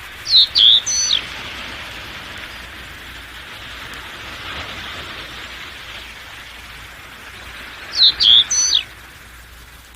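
A bird calling twice, each a quick phrase of three or four high, sharp notes that slide downward, the second phrase about seven seconds after the first, over a steady background hiss.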